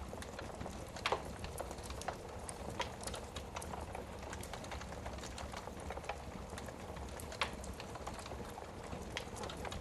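Wood fire burning in a fireplace: steady low rumble of the flames with irregular crackles and pops, two sharper pops about a second in and near the end.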